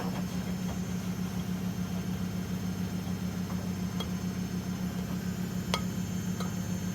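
Miele washing machines running together: a steady motor hum with a fast even pulse, and a few faint clicks and ticks.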